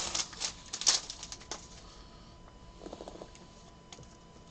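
Trading-card pack wrapper crinkling with quick crackles in the first second and a half, then fading to faint rustling of cards being handled, with a short burst about three seconds in.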